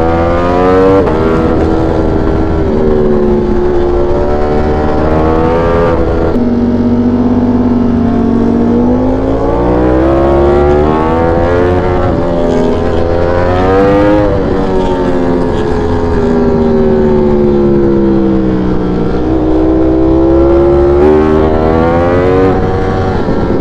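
V4 sport motorcycle engine under riding load through tight corners. Its pitch climbs and falls repeatedly with the throttle, breaking sharply a few times where the rider shifts or rolls off.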